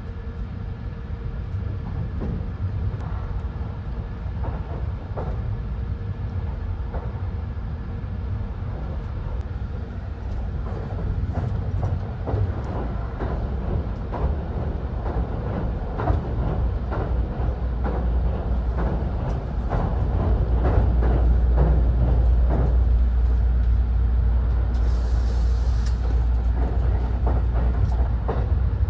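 Cabin noise of the Thunderbird limited express train running at speed: a steady low rumble that grows louder about two-thirds of the way through, with scattered light clicks.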